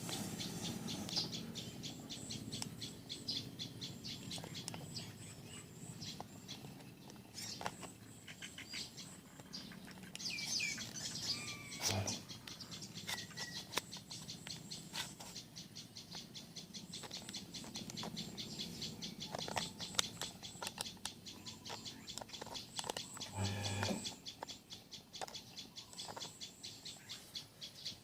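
Faint bird chirps, a few short calls about ten to thirteen seconds in, over a rapid, steady ticking.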